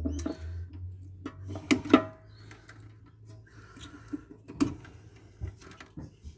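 Scattered knocks, clicks and clatter of metal parts being handled and pried at while a solar inverter is dismantled by hand, with a sharper knock about two seconds in and another about four and a half seconds in.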